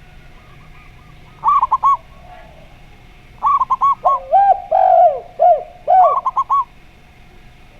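Zebra dove and spotted dove cooing. The zebra dove gives quick bursts of three or four high, clipped coos about a second and a half in, again near the middle and once more towards the end. The spotted dove answers with a few lower, longer arching coos in the middle, overlapping the zebra dove.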